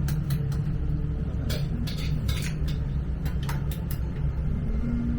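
Busy background ambience: a steady low rumble with scattered sharp clicks and clinks throughout.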